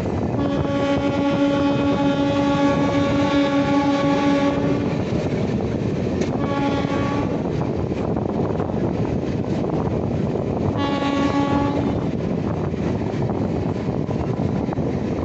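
Indian Railways locomotive horn on the Humsafar Express: one long blast of about four and a half seconds, then two short blasts several seconds apart, over the steady rumble of the train.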